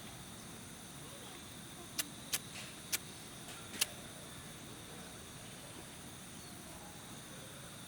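Four sharp wooden snaps over about two seconds, like burning or breaking sticks, against a steady high drone of insects.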